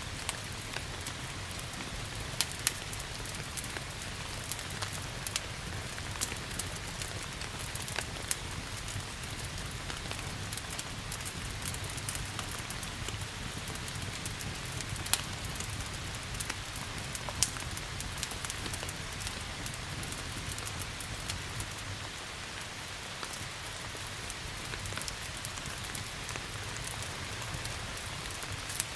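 Steady rain hissing together with a crackling wood fire in a fireplace. The fire gives irregular sharp pops and snaps, a few of them loud, over a steady low rumble.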